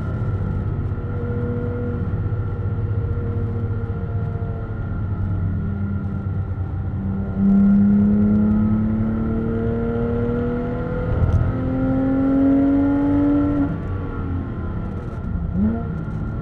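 Porsche 911 GT3 RS's naturally aspirated flat-six heard from inside the cabin on track. The engine note climbs steadily in pitch as it pulls through the revs, gets louder about halfway in under harder throttle, eases off shortly before the end, and gives a short sharp rev blip near the end.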